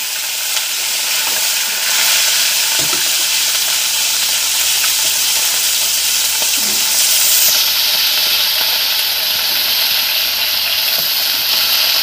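Small river fish deep-frying in hot oil in a wok: a loud, steady sizzle.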